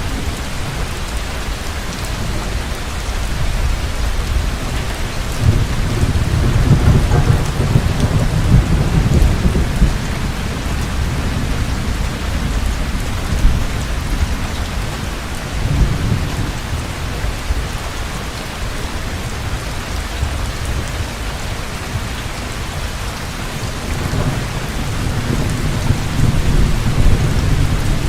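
Heavy rain falling steadily, with low rolls of thunder rumbling through it: a long roll from about five to ten seconds in, a short one near the middle, and another near the end.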